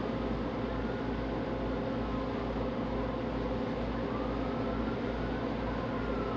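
An NYC Ferry boat's diesel engines running steadily under way, a constant drone with rushing noise over it. A faint whine rises and then falls in pitch from about four seconds in.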